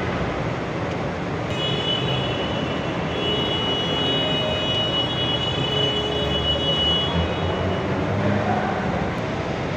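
Forklift engine running steadily, with a thin high whine that comes in about a second and a half in and fades out near the end.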